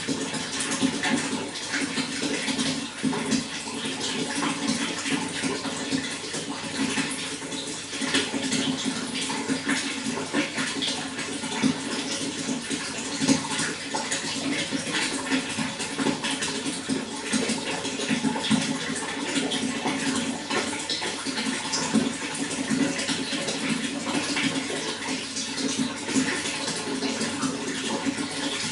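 Running water, flowing and splashing steadily with a constant rushing, gurgling texture.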